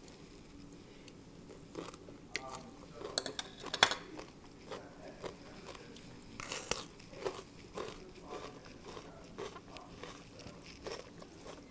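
Close-up crunchy chewing and biting of raw vegetables: green papaya salad and a raw bitter melon. Irregular crisp crunches, with the sharpest bites about four and six and a half seconds in.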